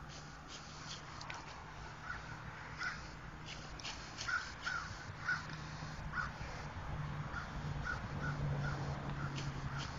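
A bird calling outdoors in a long irregular series of short notes, with a steady low hum underneath that grows a little louder in the second half, and light rustling.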